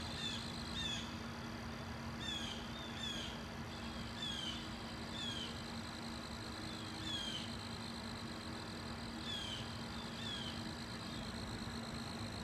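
Small birds calling outdoors: short, high chirps that each slide downward, repeated every half second to a second, over a steady low hum.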